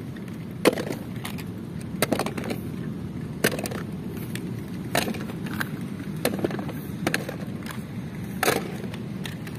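Toy cars rolling across a hard floor: a steady low rumble of small wheels, with sharp plastic clacks and knocks every second or so.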